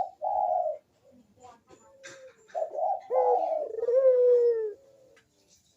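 Barbary dove (burung puter) cooing its 'kuk deruk' call: a short pair of coos right at the start, then a longer phrase about two and a half seconds in whose last note is drawn out and slides slightly down.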